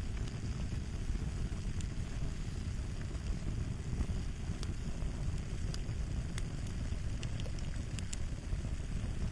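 Fire crackling: a steady low rumble of burning with scattered small, sharp pops and snaps at irregular moments.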